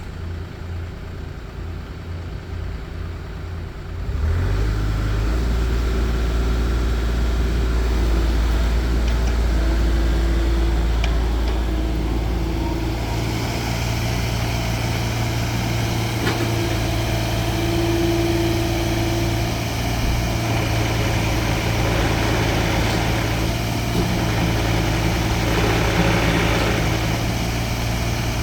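Kubota U50-5 mini excavator's diesel engine idling, then rising to a higher, steady running speed about four seconds in. From about halfway through, a brighter hiss and some intermittent whining tones join the engine note.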